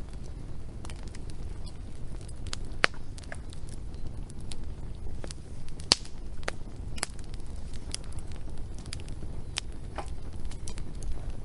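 Wood fire crackling, with irregular sharp pops and snaps over a low steady rumble; the loudest pops come about three and six seconds in.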